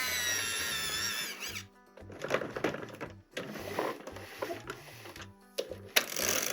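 Toy unboxing handling sounds: a drawn-out, wavering squeal for about the first second and a half, then rustling and sharp clicks of packaging being worked by hand.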